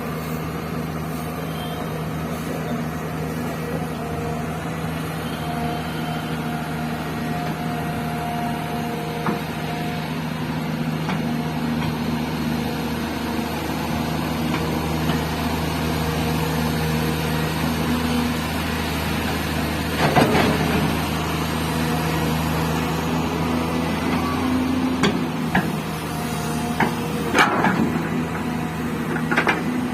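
Hydraulic excavator's diesel engine running steadily while loading a tipper. In the second half come a few loud, rattling crashes, typical of gravel dropping from the bucket into the tipper's steel bed.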